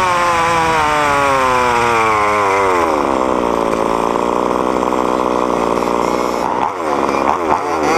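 Small two-stroke gasoline engine of a large-scale RC car, its revs falling steadily for about three seconds and settling to a steady idle, then blipped on the throttle a few times near the end.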